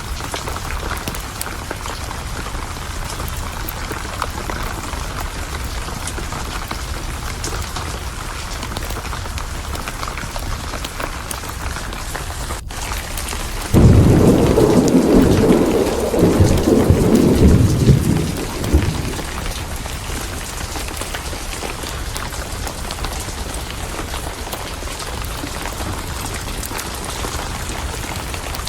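Steady rain falling throughout a thunderstorm. About halfway through, a thunderclap breaks in suddenly, the loudest sound here, and rumbles for about five seconds before fading back under the rain.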